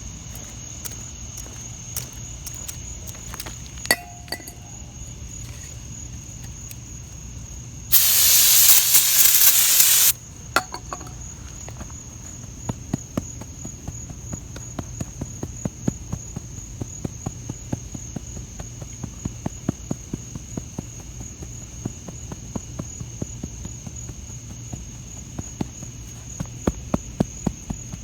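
An aerosol can of brake parts cleaner spraying in one loud hiss of about two seconds, about eight seconds in, over a steady high trill of crickets. Scattered light clicks and ticks follow and grow more frequent toward the end.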